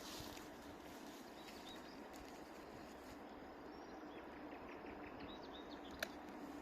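Quiet outdoor ambience with faint, scattered bird chirps over a low steady hum, and one sharp click about six seconds in.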